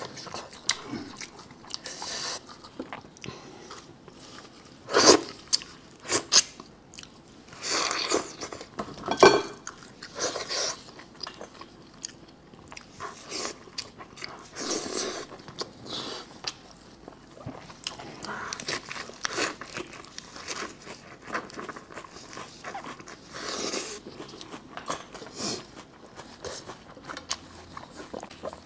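Close-miked eating of spicy braised sheep's head meat: wet chewing and biting with irregular crunches, the loudest about five and nine seconds in.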